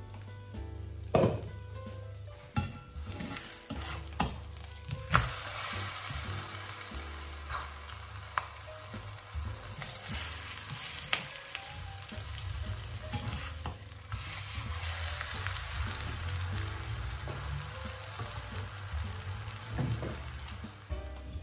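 Banana pancake batter sizzling and frying in a pan. There are a few sharp knocks of cookware against the pan in the first five seconds, and a slotted spatula works under the pancake to turn it.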